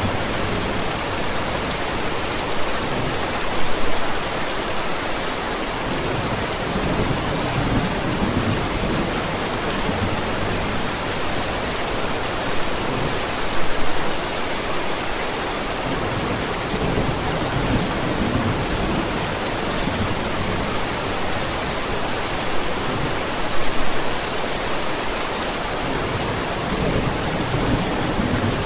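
Steady rain storm, a constant hiss of rainfall, with brief louder swells about every ten seconds.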